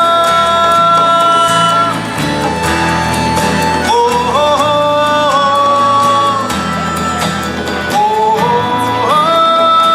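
Live band music: a melody in long held notes that step up around four seconds in and again near the end, over guitar and band accompaniment.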